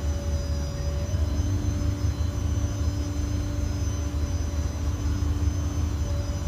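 Vehicle engine running steadily: a low rumble with a constant hum above it.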